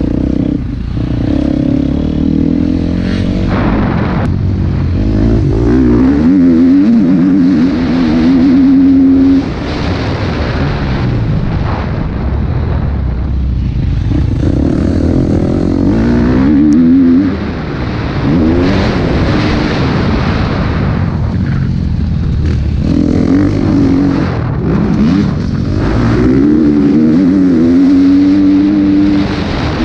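KTM 250 SX-F motocross bike's single-cylinder four-stroke engine revving hard and rising and falling in pitch as the throttle is opened and shut through the lap. The revs drop off sharply twice, about a third and just over halfway through.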